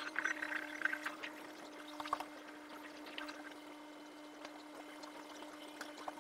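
Rainwater pouring and dripping with scattered small clicks and crackles, busiest in the first second, over a steady low hum.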